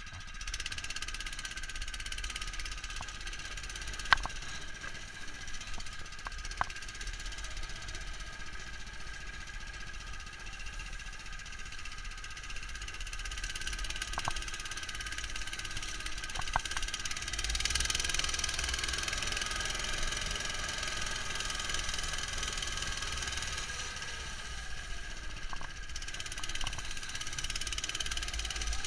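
Neva MS-1 walk-behind tractor's engine running steadily while driving, heard muffled through a sealed camera housing, with a few sharp clicks and rattles; it gets a little louder about two-thirds of the way in.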